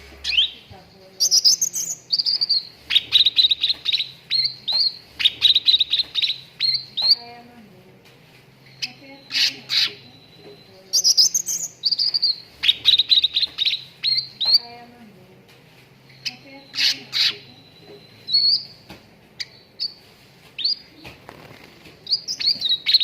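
Cucak ranting, a bulbul kept as a songbird, singing in phrases of rapid, sharp chirps and short trills, separated by brief pauses.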